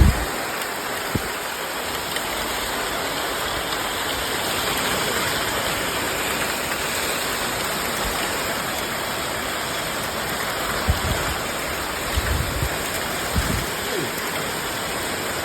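Heavy rain falling in a steady hiss during a windstorm, with a few brief low rumbles of wind buffeting the microphone about two-thirds of the way in.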